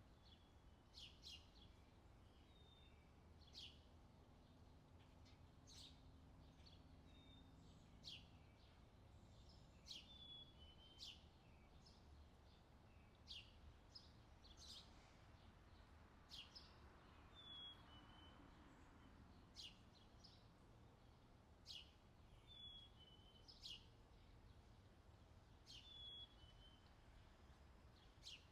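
Faint outdoor summer ambience track: birds chirping, a short sharp chirp every second or two, some followed by a brief falling note, over a low steady hum.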